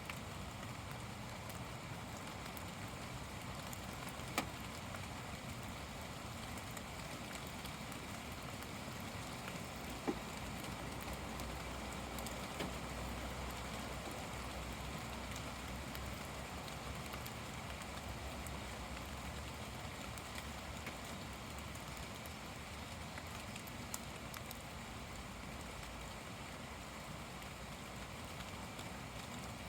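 Heavy rain pouring down steadily, an even hiss with a few louder sharp drop impacts now and then.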